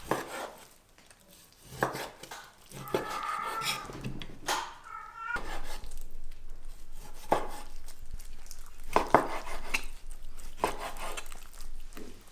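Kitchen utensils and dishes clinking and knocking in a string of separate strikes, with a short pitched sound about three to five seconds in.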